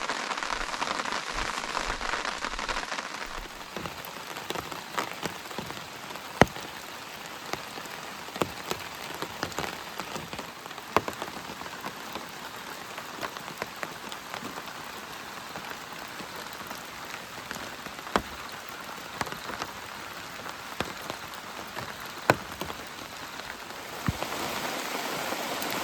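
Steady rain falling, with scattered single heavy drops striking close by as sharp ticks. The rain is louder for the first few seconds, eases, then grows louder again near the end.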